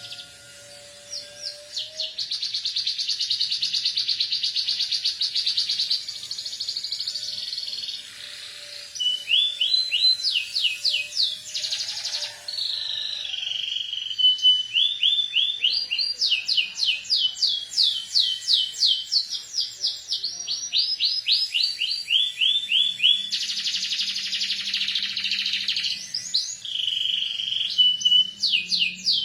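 Domestic canary singing vigorously: a long, continuous song of fast buzzy trills and rapid runs of rising sweeps. It includes phrases learned from the ciblek gunung, a prinia.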